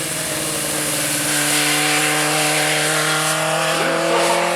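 Hillclimb racing car's engine held at high, steady revs under full load as it climbs, growing slightly louder.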